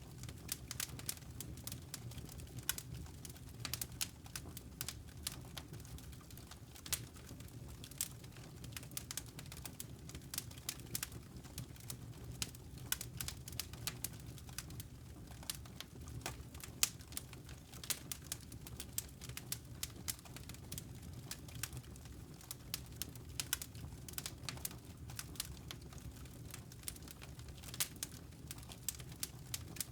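Wood fire crackling in a fireplace: frequent irregular sharp snaps and pops over a low steady rumble.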